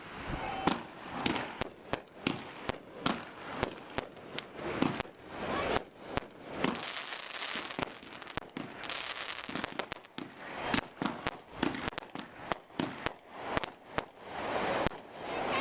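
Fireworks display: a rapid run of aerial shell bursts, about two or three sharp reports a second, with a stretch of dense crackling hiss about seven to nine seconds in.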